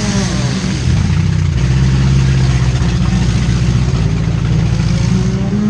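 Four-cylinder demolition derby car engines running loudly, holding a steady pitch through the middle, with engines revving up and down near the start and again near the end.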